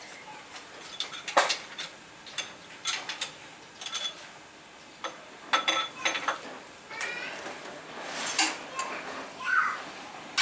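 Irregular metallic clinks and clanks of hand tools and engine parts being handled and set down. A few short pitched calls come in over them in the second half.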